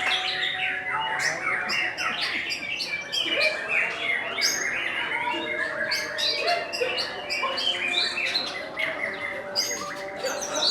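Many songbirds singing at once: a dense, unbroken chorus of overlapping whistles, trills and chirps, typical of the birds being judged at a songbird singing contest.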